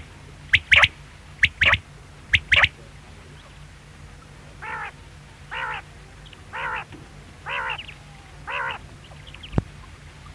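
Quail calling: sharp, high notes in quick pairs for the first few seconds, then five softer, lower calls about a second apart. A single click sounds near the end.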